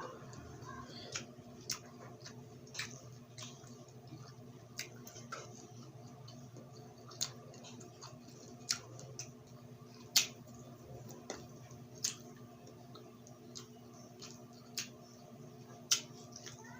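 Mukbang eating sounds: chewing grilled street food, with sharp mouth clicks and smacks at irregular intervals, roughly one a second, over a steady low hum.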